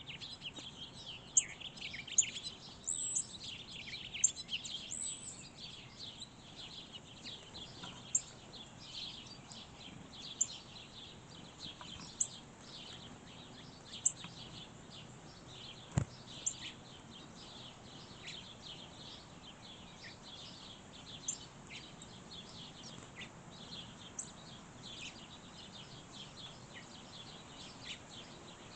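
Songbirds chirping: many short overlapping calls, busiest in the first few seconds and then sparser, with one sharp click about sixteen seconds in.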